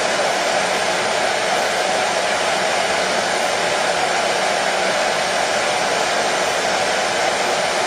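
Hair dryer running steadily: an even, unchanging rush of blown air with its strongest part in the mid range, with no change in speed or pitch.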